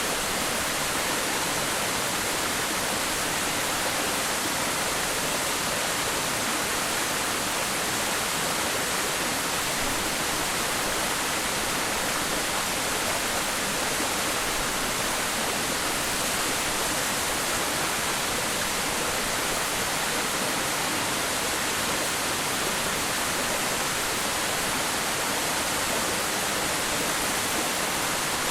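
Waterfall pouring steadily: an even, unbroken rush of falling water, strongest in the upper-middle frequencies, with no changes.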